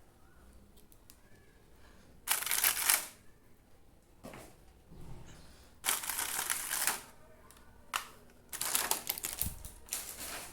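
Packaging and the toy being handled by hand: several short bursts of rustling and clicking. The loudest comes about two seconds in, another about six seconds in, and a few more near the end.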